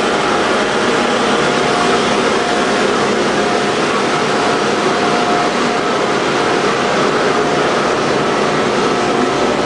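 Boiler room machinery running: a loud, steady, even noise with a couple of faint constant whining tones, unchanging throughout.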